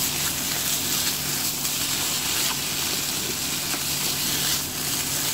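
Okara sizzling steadily in a frying pan as it is stirred and pressed with a slotted spatula, with a few faint scrapes of the spatula on the pan. The sound comes from the last of its moisture cooking off as the mixture dries and comes together.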